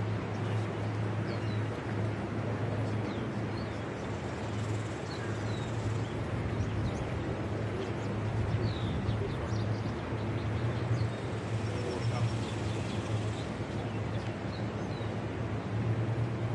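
Steady low machine hum with scattered short bird chirps over it.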